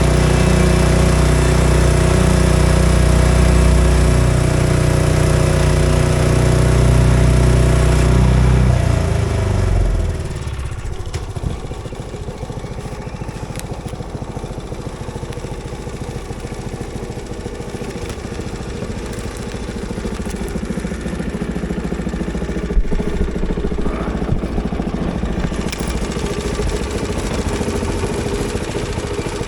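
Engine running at high speed, then throttled down about ten seconds in and settling to a rough idle.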